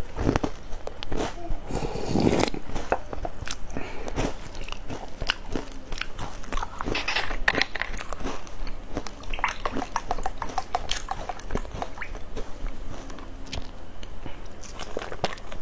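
Close-miked chewing and biting of a crisp, flaky pastry: a dense run of small crunches and wet mouth clicks, loudest about two seconds in. Near the end comes a drink from a plastic bottle.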